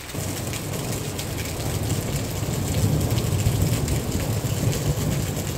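Heavy rain pouring onto a flooded paved square, a dense, steady patter of drops splashing into standing water, with a low rumble underneath that grows slightly louder partway through.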